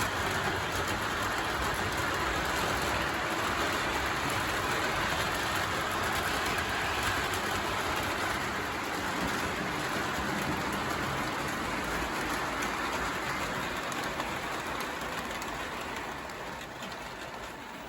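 O gauge model trains running on the track, a steady rattling rumble of wheels and motors that fades over the last few seconds.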